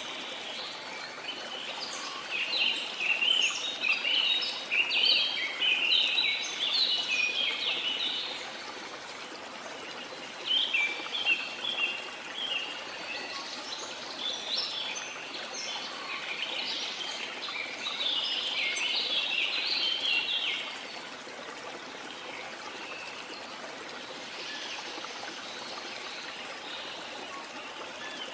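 Steady rush of falling water from a waterfall, with birds singing over it in three stretches of quick, high chirping that stops about three quarters of the way through.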